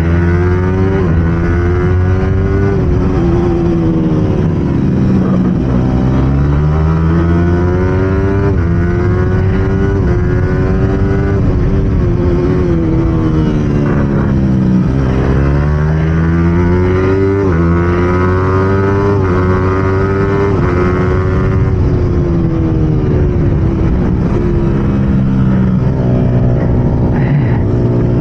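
Yamaha R15's single-cylinder four-stroke engine at race pace, heard from on board: it revs up through the gears with stepped drops in pitch at each upshift, then winds down as the rider shifts down and brakes into the corners, several times over.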